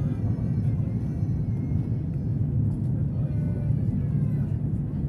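Steady low rumble of a high-speed electric train running at speed, heard from inside the passenger cabin, with faint voices in the background.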